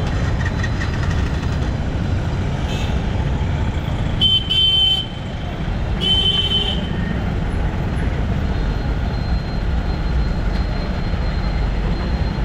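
Riding a motorbike through city traffic: a steady low rumble of engine and road noise. A vehicle horn honks in two short beeps about four seconds in, and once more about two seconds later.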